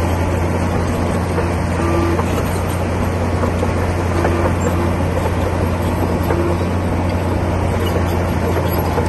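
Komatsu D60P bulldozer's diesel engine running steadily, a constant low drone with no change in pace.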